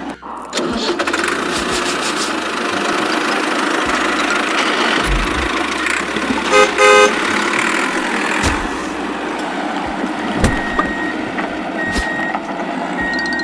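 Vehicle engine running steadily, with a horn honking twice about halfway through and a few short, high beeps near the end.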